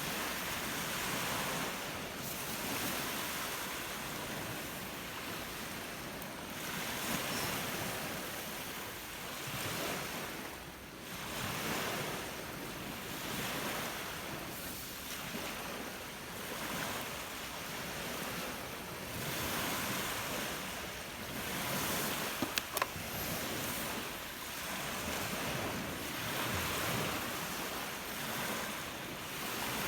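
Lake waves breaking on a shingle beach in a stiff wind, surging and washing back in repeated swells every couple of seconds, with wind buffeting the microphone. A few brief sharp ticks come about two-thirds of the way through.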